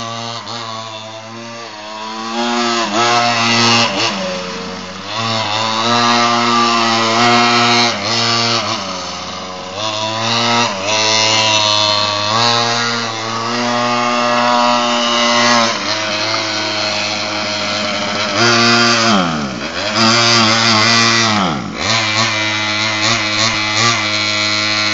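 Small 50cc minibike engine running hard, its pitch rising and falling as the throttle is worked, with two quick drops and recoveries in revs near the end.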